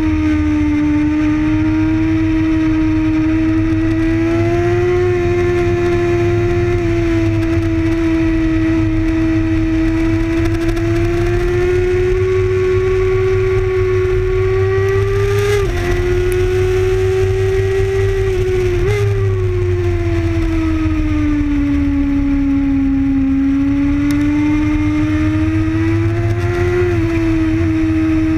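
Sport motorcycle engine running hard at track speed, its pitch rising and falling slowly through the corners, with two abrupt changes in pitch a little past halfway. Heavy wind rumble on the onboard microphone underneath.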